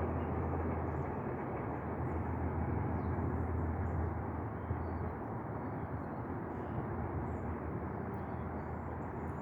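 Freight train rolling past: a steady rumble of wheels on rail with a low hum that weakens about halfway through, the whole sound slowly fading.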